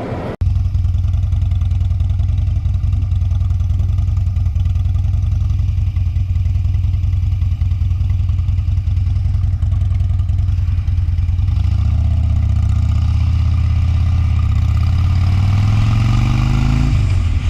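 Motorcycle engine running at a steady low idle, then its pitch climbs steadily over the last few seconds as it is revved or pulls away.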